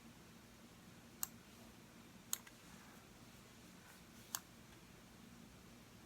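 Computer mouse button clicked three separate times, sharp single clicks spread over a few seconds, over a faint low steady hum of room tone.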